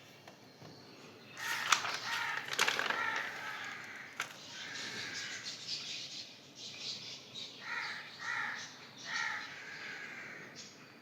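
Birds calling, several short harsh calls in the second half, with a few sharp clicks nearer the start, the loudest about two seconds in.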